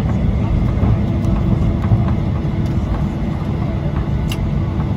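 Cabin noise inside a Boeing 737-800: a steady, loud low rumble of the CFM56 engines and airflow, with faint passenger voices and one sharp click about four seconds in.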